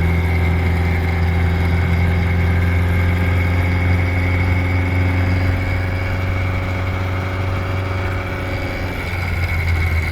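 Supercharged 1328 cc MG XPAG four-cylinder engine of a pre-war MG TA Special running steadily on the road, a low drone with a steady high whine over it. The note dips briefly near the end, then picks up again.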